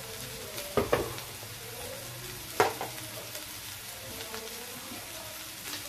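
Sliced kakora (spiny gourd) and onions frying in oil in a kadai over a high gas flame, with a steady sizzle. A few sharp knocks break it: two close together about a second in, one about two and a half seconds in, and one near the end.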